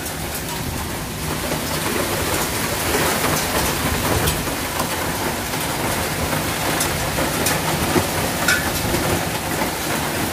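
Heavy rain and hail in strong wind: a steady rush of downpour with scattered sharp ticks of hailstones striking.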